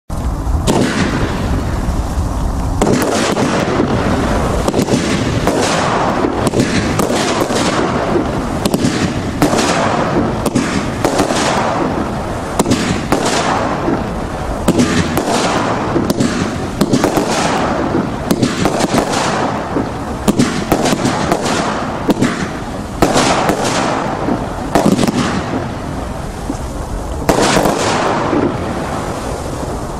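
A 25-shot brocade barrage firework cake going off shot after shot, about one sharp launch-and-burst a second, with a steady noisy hiss between the shots.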